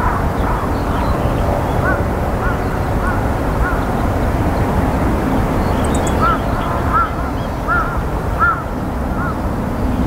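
A bird giving a series of short, repeated calls about every half second, pausing briefly midway, over a steady low rumble.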